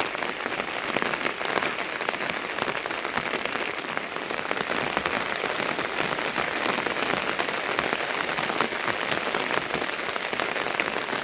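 Steady rain falling and pattering on surfaces, a dense even hiss of many small drop impacts.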